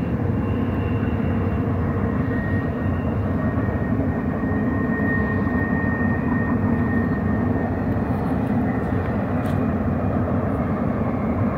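Double-stack container freight train rolling past at a distance, a steady rumble of wheels on rail. A faint high, thin whine rides on it from about two to seven seconds in.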